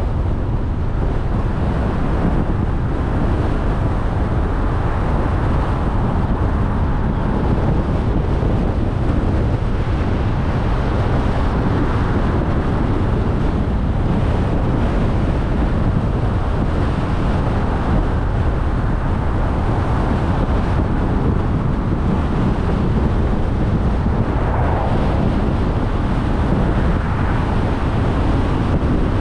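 A car driving at a steady speed: a constant rush of road and tyre noise, with wind buffeting the microphone.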